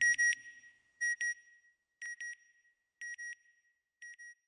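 Electronic double beeps, one pair about every second, each pair fainter than the last, fading out like an echo.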